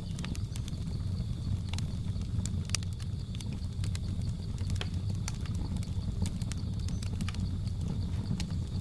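A wood fire crackling, with irregular sharp pops and snaps over a steady low rumble. Behind it runs a steady high-pitched drone of jungle insects.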